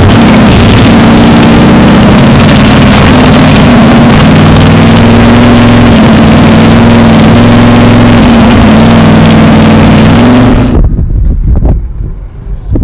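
Race truck's 600-horsepower engine running hard at steady high revs with heavy wind and road noise, loud enough to overload the recording. About eleven seconds in it cuts off abruptly, leaving wind buffeting the microphone.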